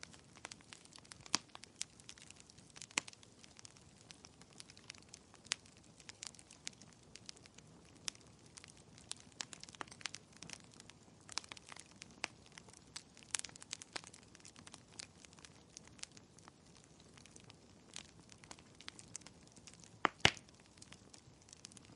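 Wood fire crackling in a fireplace: irregular snaps and pops over a faint hiss, with a couple of louder pops near the end.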